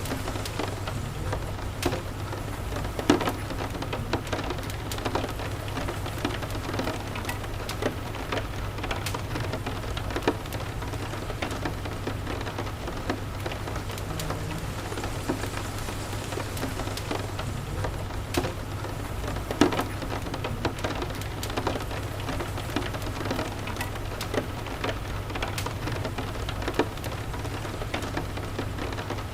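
Steady rain falling, with scattered sharp ticks and pops of drops throughout and a steady low hum beneath.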